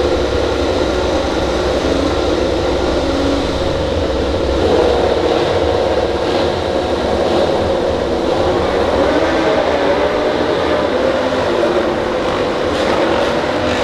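MotoGP racing motorcycle engines on track, a loud steady drone whose pitch wavers and rises near the end.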